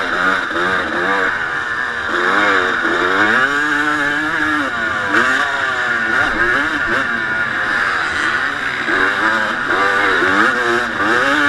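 1989 Honda CR250 motocross bike's two-stroke single-cylinder engine heard onboard at race pace, revving up and falling back again and again as the throttle is worked, over heavy wind noise.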